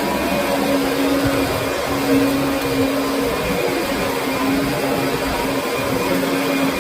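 Kirby Sentria upright vacuum cleaner running steadily, its motor holding an even hum.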